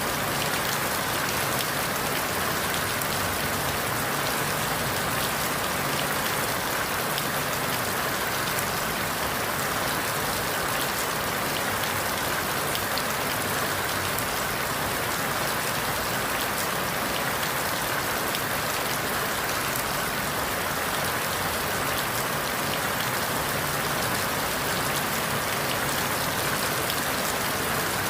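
Steady rain falling through forest leaves, an even hiss of many fine drops with no sudden sounds.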